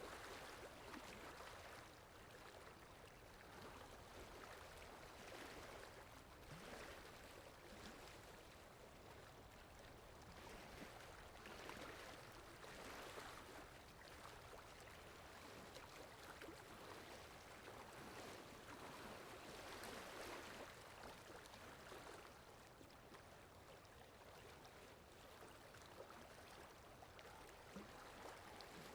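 Faint water sound effect: a soft, steady rush of flowing water that swells and eases gently every few seconds.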